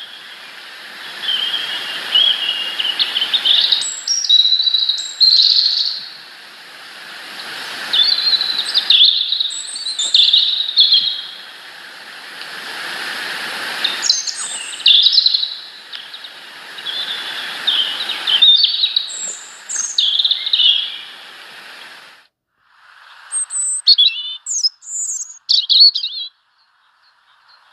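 Small birds chirping and twittering in short repeated bursts over a steady hiss. Near the end the hiss drops away and a few sharper, higher chirps follow.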